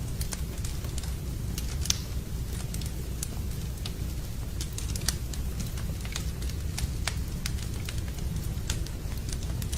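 Wood campfire crackling: irregular sharp pops and snaps, several a second, the sharpest about two seconds in, over a steady low rumble.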